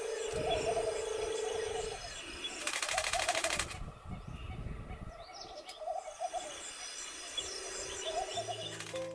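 Wild birds calling, with short groups of low notes repeating every second or so. A brief rush of noise comes about three seconds in.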